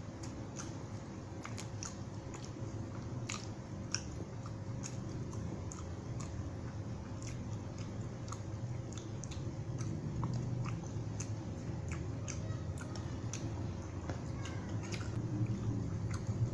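Close-miked chewing and mouth smacking of a person eating beef rendang with rice by hand, with frequent sharp wet clicks. A low rumble swells near the end.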